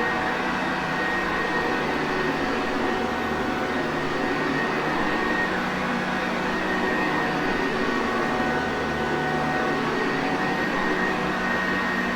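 Sanitaire Perfect upright vacuum cleaner running steadily: an even rush of motor and air with a faint high whine on top.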